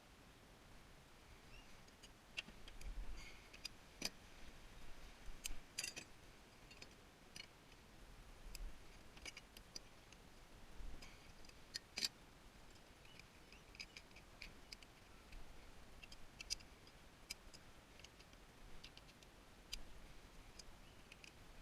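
Faint, irregular light clicks and clinks of hand tools working on small metal parts while a tankless water heater is taken apart for scrap.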